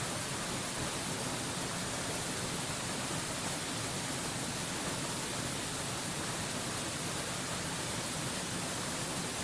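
Waterfall rushing in an even, unbroken hiss that never rises or falls, played as white noise.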